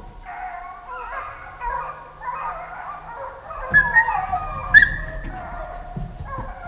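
A pack of hunting hounds baying and howling, several dogs giving voice at once, with louder sharp yelps about four and five seconds in.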